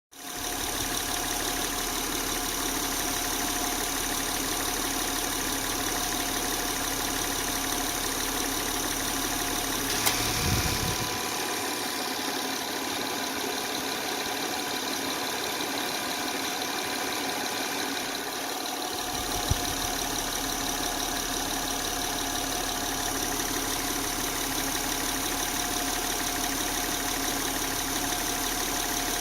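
Electric radiator cooling fans of a hot 2008 Acura MDX running with a steady whine over the rush of air, alongside the idling engine. The whine comes only while the fans run. Sharp clicks come about ten seconds in and again near twenty seconds, and the deep rumble drops out between them.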